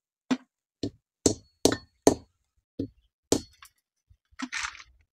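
Hard Syrian juniper (andız) berries being cracked by striking them: seven sharp knocks about half a second apart, then a brief scraping rustle near the end.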